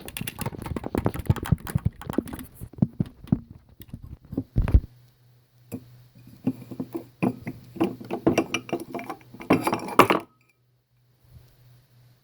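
Things being handled: a run of clicks, knocks and light clinks, with a heavy thump about five seconds in. A low steady hum starts at the thump, more clicks and clinks follow, and the handling stops near ten seconds.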